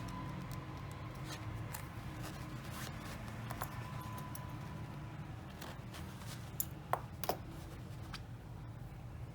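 Quiet cross-stitching sounds: scattered soft ticks and clicks of the needle and thread working through aida fabric, with a few sharper clicks about seven seconds in, over a steady low hum.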